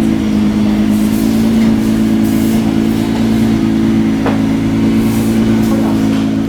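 Nissan GT-R's twin-turbo V6 idling, a steady low engine note with no revving.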